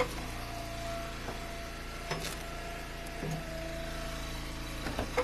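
Engine-driven Eastonmade hydraulic wood splitter running steadily, with a higher whine that comes in twice and sharp knocks about two seconds in and near the end as ash rounds are split.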